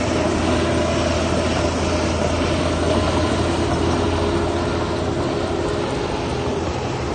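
Heavy diesel machinery engine running steadily with a low drone and a haze of mechanical noise.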